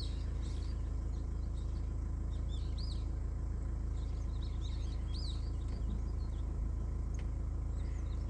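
Small birds chirping and twittering in many short, quick calls over a steady low rumble.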